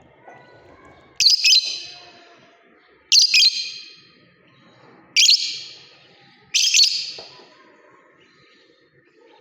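Lovebird giving four loud, high-pitched calls, each about half a second long and spaced about one and a half to two seconds apart.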